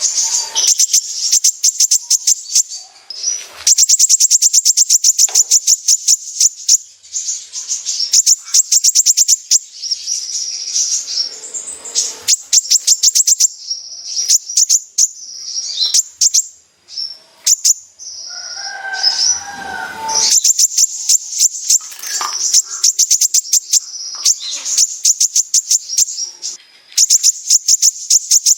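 Kolibri ninja sunbird singing its full 'besetan' song: long, fast trills of high, rapidly repeated notes, broken by short pauses.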